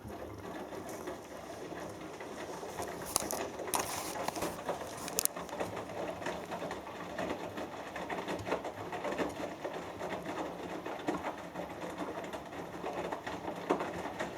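Hoover Dynamic Next washing machine in the wash phase of its Cotton 60 cycle: the drum starts turning right at the start, tumbling the wet load with water sloshing over a faint steady motor hum, and a few sharper clicks about three to five seconds in.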